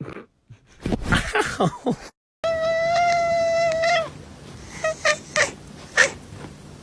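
Domestic cat meowing after being kissed on the head: a few falling meows, then after a short break one long, steady drawn-out yowl, followed by several short meows.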